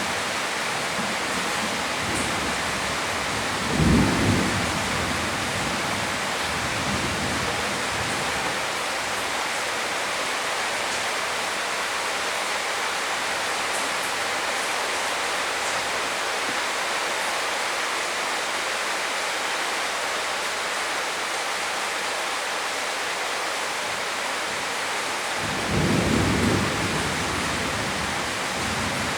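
Heavy rain falling steadily, with two low rumbles of thunder: a short one about four seconds in and a longer one near the end.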